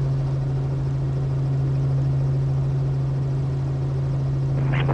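Robinson R44 helicopter's six-cylinder Lycoming engine and rotor running steadily after start-up, with the clutch engaged and the governor on: a steady low drone. A voice comes in right at the end.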